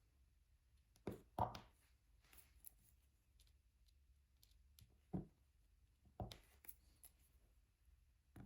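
Scattered soft taps and clicks of diamond painting: the drill pen and small resin drills tapping on the canvas and tray. There is a pair of taps about a second in and more around five to seven seconds, over a faint hiss.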